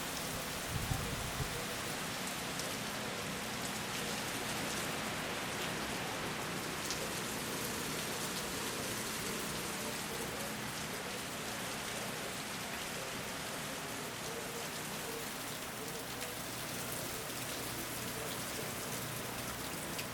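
Steady hurricane rain falling, an even hiss with faint scattered drop ticks, and a brief low thump about a second in.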